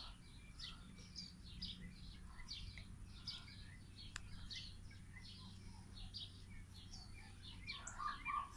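Faint, regular bird chirps, short high notes repeating about twice a second.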